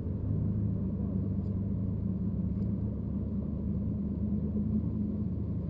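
Low, steady engine rumble with a droning hum.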